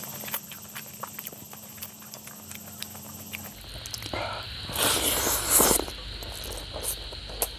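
Close-miked eating sounds of rice and fish curry eaten by hand: wet chewing and lip smacks as many short clicks, with fingers squishing rice on the plate. About five seconds in, a louder noisy rush lasts about a second.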